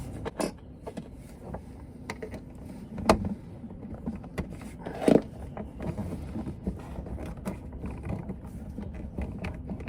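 Scattered light clicks and knocks as the water valve is worked loose and pulled from the back of a Dometic RV toilet, with two sharper clicks about three and five seconds in.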